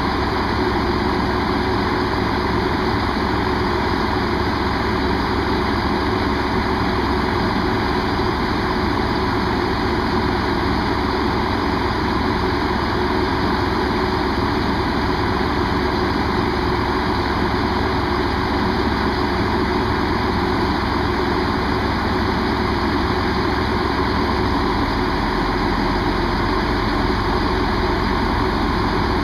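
Diesel train engine idling steadily at the station, a constant low running sound.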